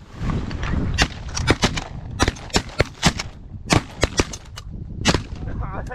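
Rapid volley of shotgun blasts from several duck hunters firing together, about fifteen shots in some four seconds, over wind rumbling on the microphone.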